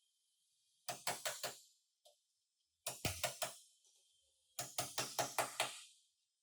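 Hammer striking car body metal in three quick runs of blows, about four, four, then six or seven strikes, each with a short ring.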